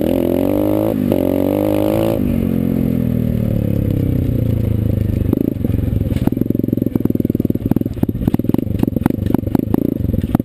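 Small dirt bike engine revving up, with a short break about a second in as it shifts, then winding down steadily as it comes off the throttle. For the second half it runs low and uneven, with many sharp clicks and rattles.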